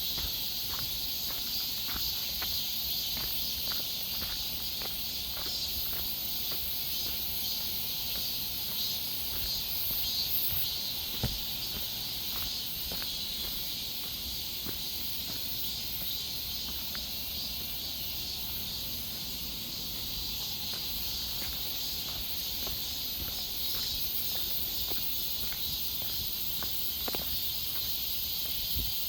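Steady chorus of insects in a forest, a continuous high buzzing hiss with scattered faint ticks and a low background rumble.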